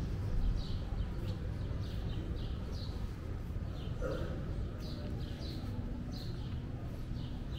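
Birds chirping repeatedly, short high chirps about two a second, over a steady low background rumble.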